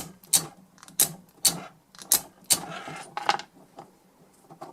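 A cable plug worked in and out of the DI box's freshly cleaned input jack: about a dozen sharp, irregular metallic clicks that stop a little after three seconds in.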